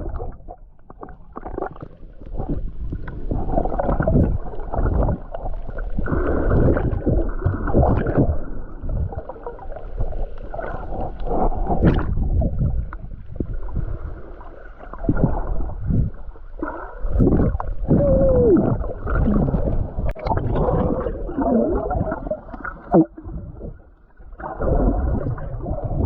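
Muffled, gurgling water sound picked up by a camera held under water while snorkeling, with uneven swells of sloshing and rumbling.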